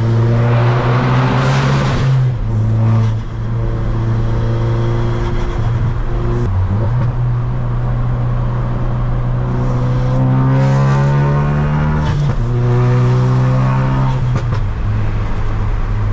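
Ford Focus RS's 2.3-litre turbocharged four-cylinder, tuned to about 450 horsepower, running flat out in a full-throttle pull through the gears. The engine note breaks and picks up again at about 2, 6½ and 12 seconds in, at the gear changes.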